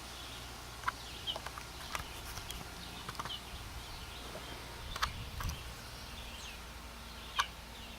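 Outdoor ambience with scattered short bird chirps, a handful of brief high notes, the sharpest one near the end.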